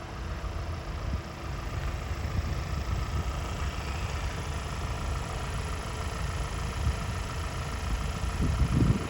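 Vintage tractor engine running steadily, with a brief swell in loudness near the end.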